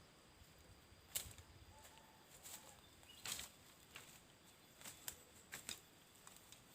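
Small birds giving faint, scattered short chip calls, a dozen or so sharp clicks and chirps spread unevenly, the loudest a little after one second in and again about three seconds in.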